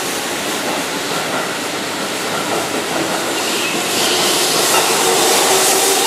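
Keihan Electric Railway commuter train running past along a station platform: the steady rushing noise of its wheels on the rails and its running gear, growing a little louder about four seconds in.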